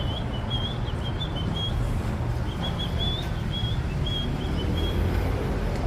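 A small bird chirping in quick, short, high notes, in two runs with a pause of about a second between them, over a steady low background rumble.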